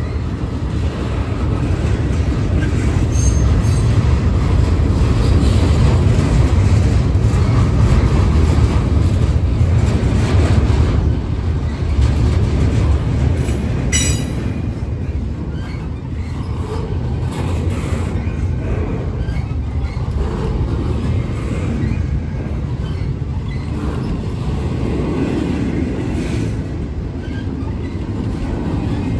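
Double-stack intermodal freight train's well cars rolling past close by: a steady low rumble of steel wheels on rail. There is a single sharp knock about halfway through.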